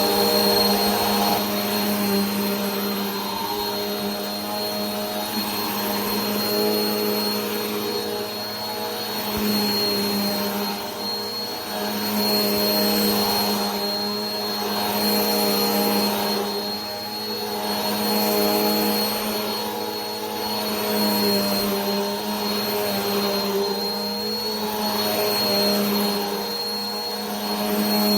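Vacuum cleaner running steadily: a motor hum with a thin high whine and rushing air, gently swelling and easing in loudness every few seconds.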